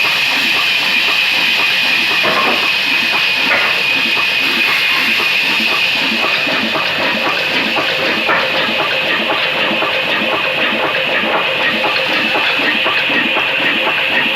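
Stationary diesel engine running steadily to drive a sawmill saw, with fast regular exhaust beats under a steady high whine.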